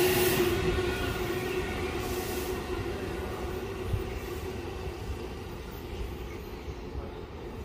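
Seibu electric commuter train pulling away along the track, its rumble and steady whine fading as it draws off into the distance.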